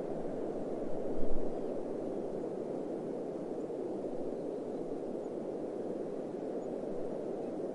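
Steady rushing desert wind, with a brief low rumble of wind buffeting the microphone about a second in.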